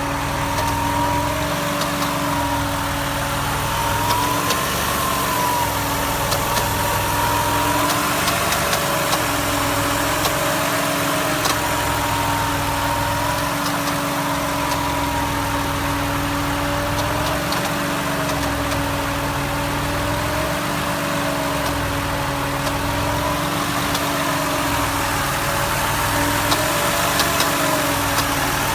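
Ford Duratec ST220 3.0 V6 idling hot with a strange noise: a steady hum under a higher whine that slowly wavers up and down in pitch every few seconds, with faint ticks. It persists although the lifters, rollers, camshafts, timing chains and tensioners have all been replaced.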